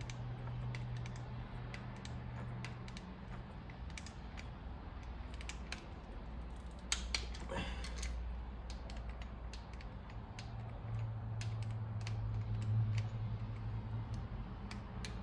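Scattered light clicks and taps of hand tools and metal rocker arm hardware being handled on an engine, with a sharper pair of clicks about seven seconds in.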